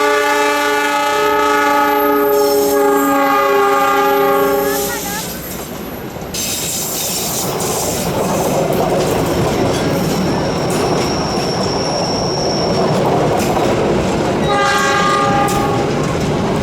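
Locomotive horn of a long-distance train sounding a chord of several tones for about five seconds. It is followed by the loud rumble and wheel clatter of the train passing, and a shorter horn blast near the end.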